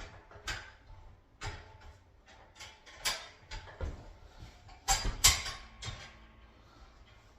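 Appliance hand truck parts being moved and latched: a series of sharp metal clicks and clunks, the loudest pair about five seconds in, as a part locks into place.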